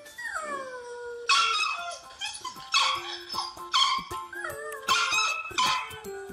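A dog gives one falling howl, then about five sharp yips, over faint background music.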